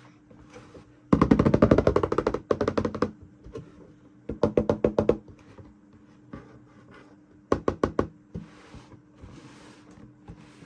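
Small plastic toy parts or packaging being handled, in four bursts of rapid clicking: a long run about a second in, a shorter one right after, another in the middle and a brief one past the middle.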